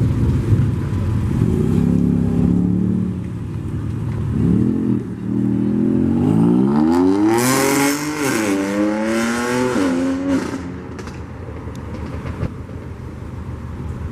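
A car engine revs briefly, then accelerates hard away. Its pitch climbs and drops back twice at upshifts before the sound fades after about ten seconds.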